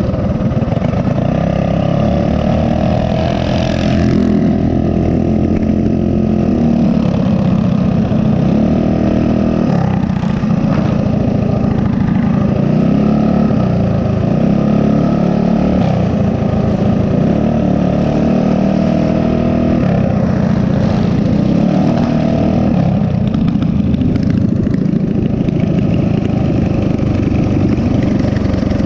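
Mini bike's small single-cylinder four-stroke engine running while riding, its revs rising and falling several times as the throttle is worked.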